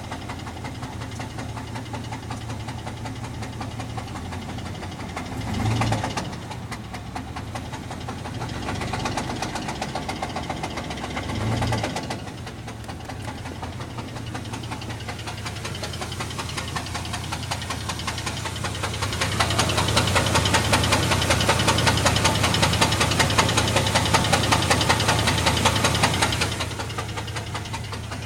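1998 GMC Jimmy's 4.3 L Vortec V6 running with a rhythmic knocking from a worn rod bearing (rod knock). It is revved briefly twice, about six and twelve seconds in. Later it is held at higher revs for about seven seconds, the knock louder, then it drops back to idle.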